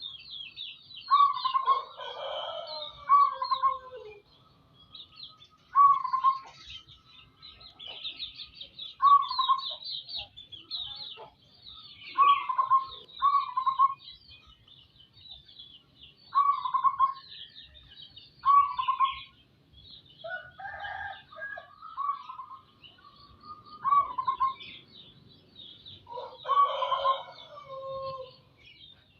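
Zebra dove (perkutut) cooing: short notes repeated every couple of seconds, over constant high chirping of other small birds.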